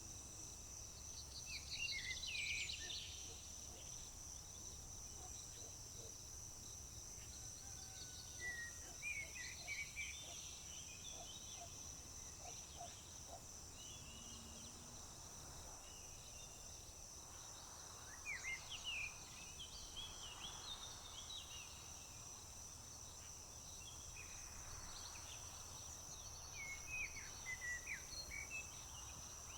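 Outdoor summer nature ambience. A steady, high-pitched insect chorus trills without a break. Songbirds chirp and trill in short bursts, loudest about two seconds in and again in clusters later on.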